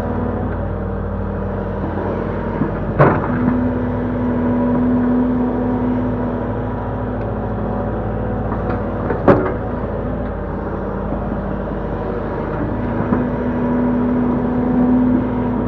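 Link-Belt 145X3E hydraulic excavator running steadily with a diesel engine hum, its pitch swelling twice as the machine works under load. There are two sharp knocks, about three seconds in and again about nine seconds in.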